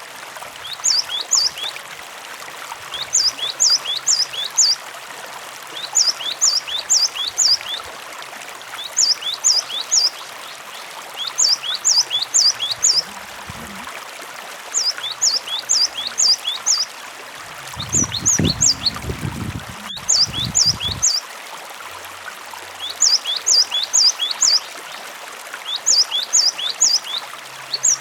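Cinereous tit (gelatik batu) singing a repeated phrase of three to four sharp high notes about every two seconds, over steady running water. A brief low rumble comes about two-thirds of the way through.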